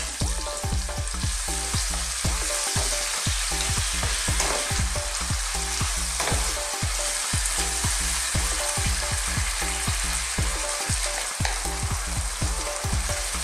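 Pork belly, onion and tomato sizzling in a frying pan while a wooden spatula stirs and scrapes the pan, making many quick scraping strokes over a steady hiss.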